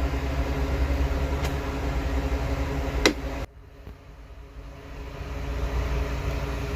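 A steady low mechanical hum of a running machine, with a sharp click about three seconds in. Soon after the click the sound drops suddenly, then the hum builds back up.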